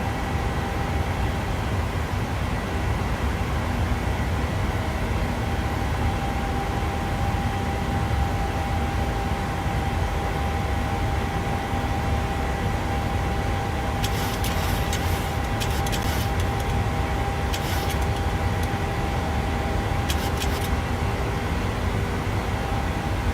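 Steady in-flight noise inside a Boeing 737-800 climbing after takeoff: an even low rumble of airflow and its CFM56 engines with a thin steady tone over it. A few short bursts of high hiss come in the second half.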